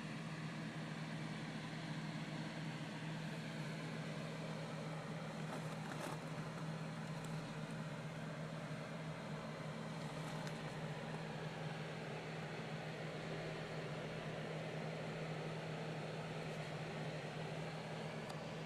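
An engine idling steadily with a constant hum, never revved.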